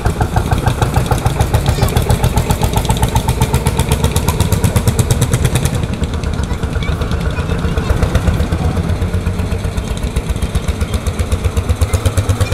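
Old tractor engine running with a steady, rapid chugging of evenly spaced firing pulses; the sound changes slightly about six seconds in.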